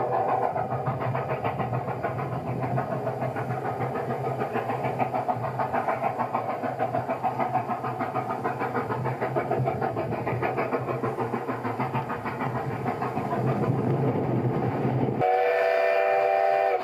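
Train running with a steady rumble and rapid rhythmic pulsing, then a multi-tone train whistle sounding about fifteen seconds in and holding to the end.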